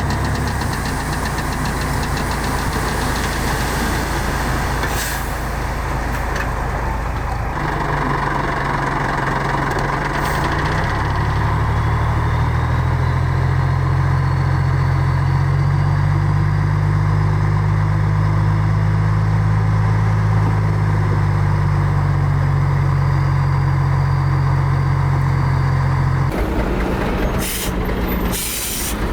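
Heavy diesel earthmoving machinery running steadily. The engine pulls harder from about ten seconds in, and the sound changes abruptly near the end.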